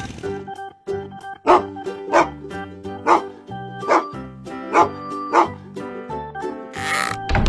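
Dog barks, about six of them, roughly one a second, over cheerful children's background music. A short rush of noise comes near the end.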